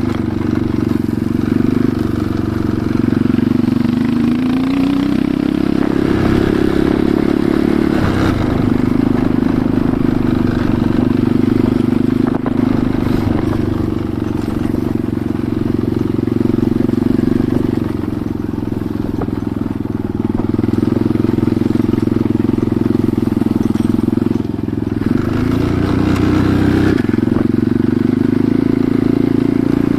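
Enduro motorcycle engine running under way on a forest track, its pitch rising with the throttle about four seconds in and again near the end.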